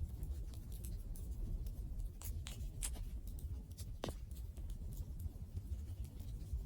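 Open wood fire burning: irregular sharp crackles and pops from the burning wood over a low, steady rumble of the flames, with one stronger pop about four seconds in.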